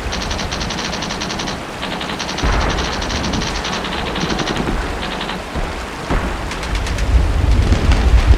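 Three long bursts of automatic gunfire at about ten shots a second over steady rain. A low rumble of thunder swells near the end, with a few single shots.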